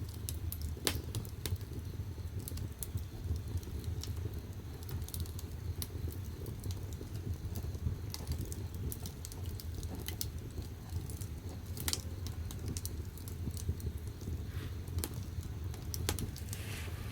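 Firewood burning in the firebox of a wood-fired bath: a steady low rumble of the fire with irregular sharp crackles and pops from the burning wood.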